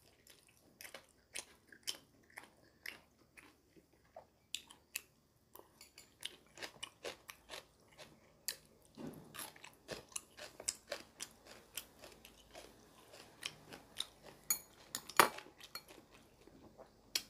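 A man chewing a mouthful of rice and grilled eel: many short, irregular mouth clicks, with metal chopsticks now and then clinking against a ceramic rice bowl.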